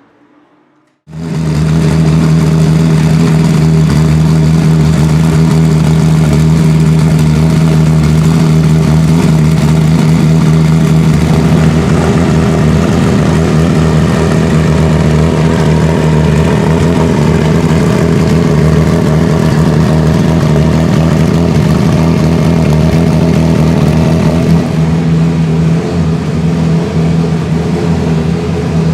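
Porsche 997 GT2 RSR's 3.9-litre twin-turbo flat-six running loud at steady revs, its pitch holding nearly unchanged; it starts abruptly about a second in.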